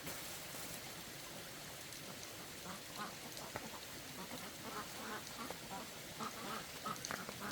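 Short animal calls repeated in quick succession, starting about three seconds in, over a faint steady hiss.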